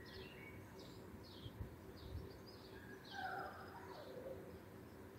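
Bird chirping, short high chirps about twice a second, with a falling call about three seconds in, over a faint steady hum.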